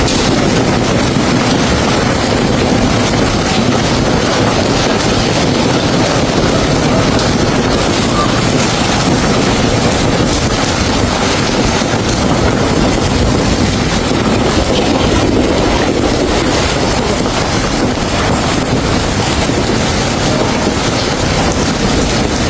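Heavy rain mixed with hail pelting down hard, a dense, steady hiss of countless impacts, with wind rumbling on the microphone.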